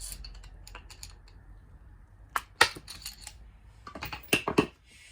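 Scattered clicks and clinks of small metal parts and hand tools being handled while working on a chainsaw's ignition, with a few sharper knocks about two and a half seconds in and near the end.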